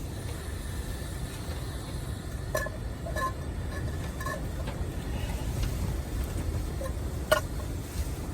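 Blizzard wind buffeting the microphone as a steady low rumble, with a few small clicks or knocks; the sharpest click comes about seven seconds in.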